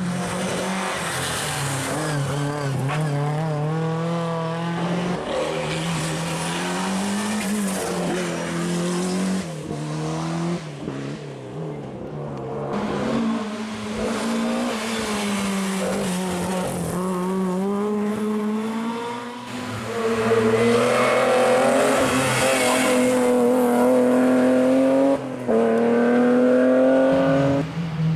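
Historic rally cars at full throttle, one after another, engines revving up and dropping back through gear changes and braking, with tyres squealing through the corners. The loudest car comes in the last third.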